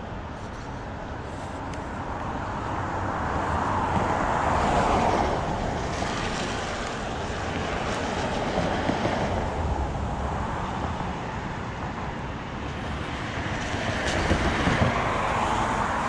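Street traffic with vehicles passing close by one after another: three swells of tyre and engine noise that build and fade, the loudest about five seconds in and near the end.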